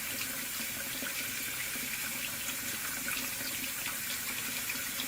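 Sink faucet running steadily about half open, hot water splashing into the basin in an even hiss.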